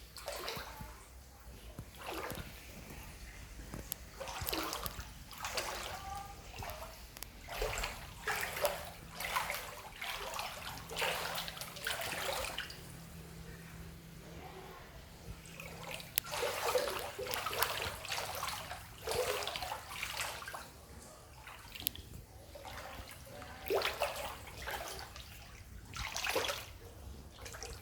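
Floodwater splashing and sloshing in irregular bursts, every second or two.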